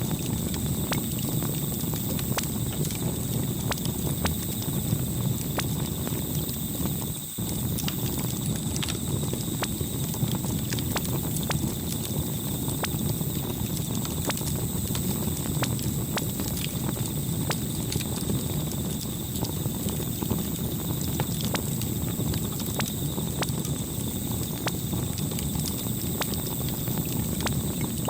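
Campfire crackling: a steady low rush of burning wood with frequent irregular pops and snaps. The sound drops out very briefly about seven seconds in.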